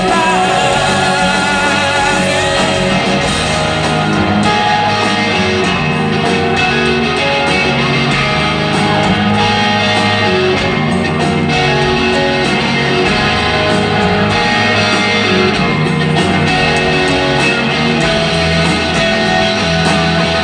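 Rock band playing live, an instrumental stretch between vocal lines with guitar to the fore, loud and steady throughout.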